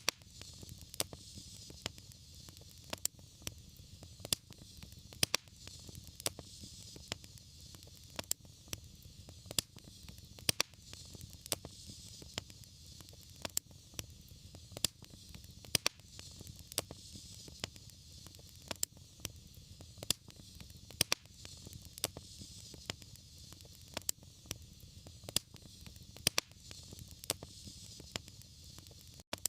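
Wood fire crackling: sharp, irregular pops about one or two a second over a soft steady hiss and low rumble of the flames.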